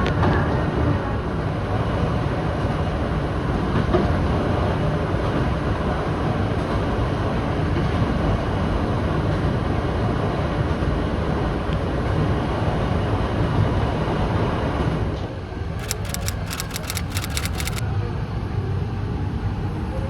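Toyama Chiho Railway Fujikoshi Line electric train running, a steady rumble. About three-quarters of the way in the noise eases off, and a quick run of sharp high ticks follows for about two seconds.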